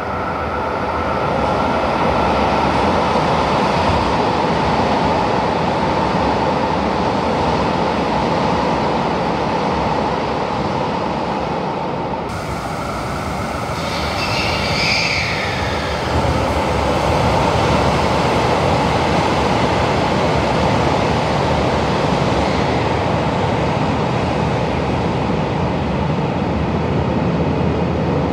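Passing trains running through the station: first a rapid train, then, after a cut, an out-of-service KiHa 261 diesel limited express. Both give a steady loud rumble and rail noise. A brief high whine comes about halfway through.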